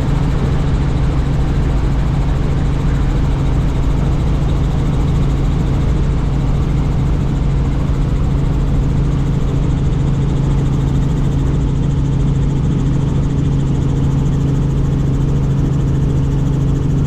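Helicopter in flight heard from the cabin: a steady loud drone of rotor and engine, with a strong low hum over an even rushing noise.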